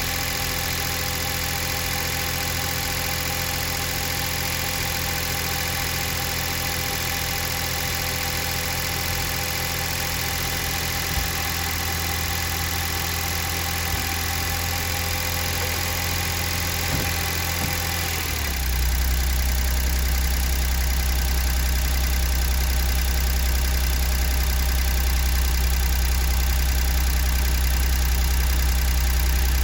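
Daihatsu Atrai Wagon's 660 cc three-cylinder engine idling with loud mechanical noise, a worn engine past 110,000 km that burns oil heavily. About two-thirds of the way in, the engine note drops lower and gets louder.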